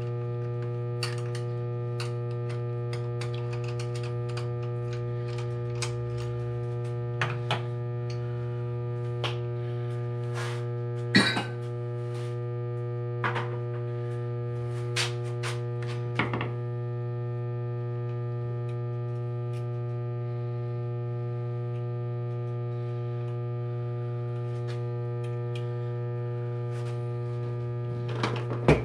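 Steady electrical hum, with scattered light clicks and clinks of hand tools and metal engine parts during a motorcycle engine teardown. The sharpest click comes about eleven seconds in, and a quick run of knocks comes at the end.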